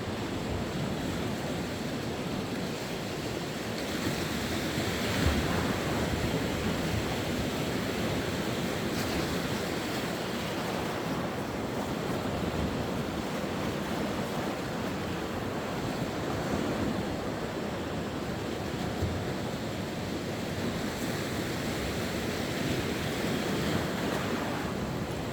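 Sea waves breaking and washing on the shore in a steady wash, with a louder breaker about five seconds in.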